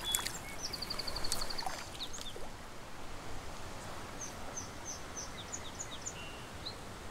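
Small songbirds calling: a rapid high trill of about a dozen even notes lasting roughly a second, then a run of short, high chirps a few seconds later, over a faint steady outdoor hiss.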